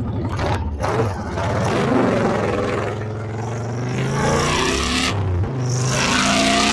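Honda Fury's 1300cc V-twin engine running while riding, its pitch shifting up and down with the throttle, with a brief break about five and a half seconds in, over a steady rush of wind noise.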